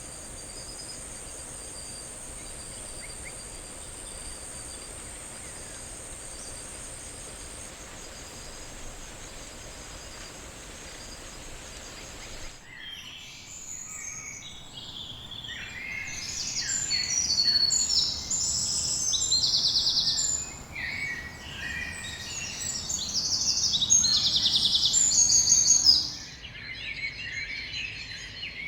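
Forest ambience: a steady hiss with a thin, high, steady tone for the first half, then from about halfway a loud, busy chorus of bird chirps and rapid trills, which drops back to quieter calls near the end.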